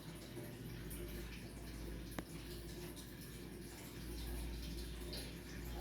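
Water trickling and splashing steadily from an aquarium's overhead sump filter, over a low steady hum. A single sharp click about two seconds in.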